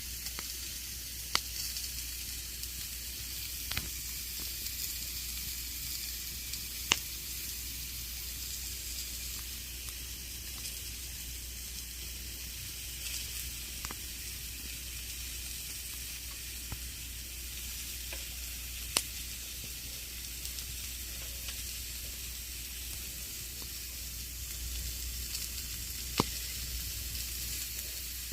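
Campfire crackling: a steady hiss of fine crackles from the burning wood, broken by a handful of sharp, loud pops at irregular intervals.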